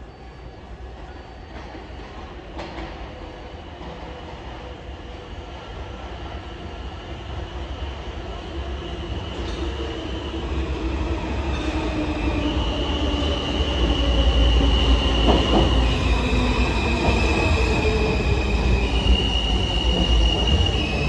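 R160 subway train pulling into an underground station. A rumble grows steadily louder as it approaches, and high wheel squeal sets in during the second half, stepping back and forth between two pitches.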